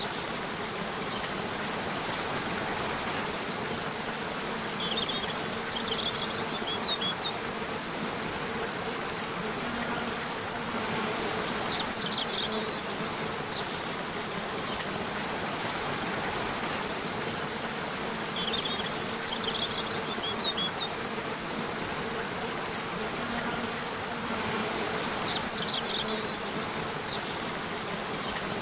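Nature ambience of buzzing insects over a steady rushing background. Short clusters of high bird chirps come about every six to seven seconds.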